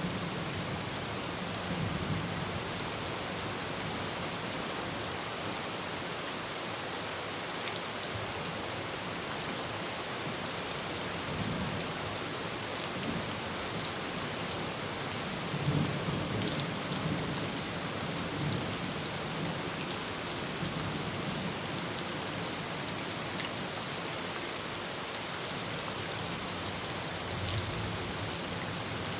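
Heavy rain falling steadily on a tin roof, an even hiss, with low rolls of thunder swelling up a few times, the strongest about halfway through.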